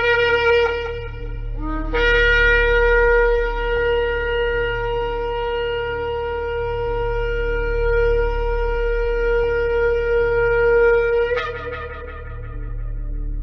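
Shofar blown in long blasts: one blast ends about a second in, then a new one slides up in pitch and is held steady for about nine seconds before breaking upward and fading away.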